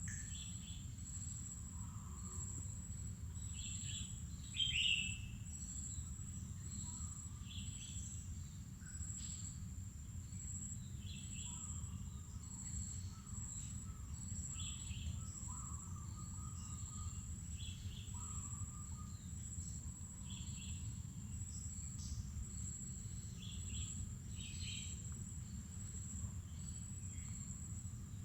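Mangrove forest birds calling in short chirps every second or two over a steady high-pitched insect drone, with a low steady rumble underneath. One louder, nearer call comes about five seconds in.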